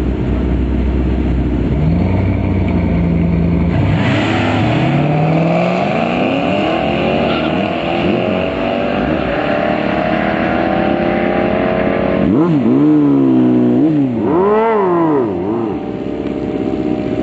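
Car engine making a drag strip pass: the revs climb steadily for several seconds under hard acceleration, then rise and fall sharply several times near the end.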